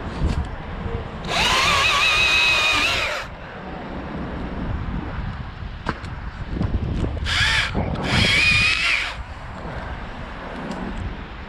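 Battery top-handle chainsaw (Stihl MSA 161 T) running in short bursts with a high motor whine: one run of about two seconds a second in, then a brief burst and a second longer run around seven to nine seconds. Between the runs the saw goes silent, with a low wind rumble on the microphone.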